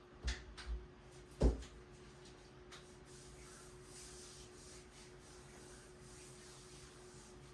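A few light knocks in the first second and a louder, deeper thump about a second and a half in, then a faint hiss over a steady low hum.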